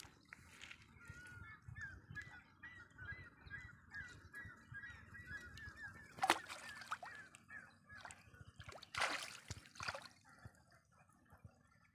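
A bird calls over and over in a quick run of short chirps for several seconds. Water splashes sharply about six seconds in and again around nine seconds as a mesh fishing net is handled in the water.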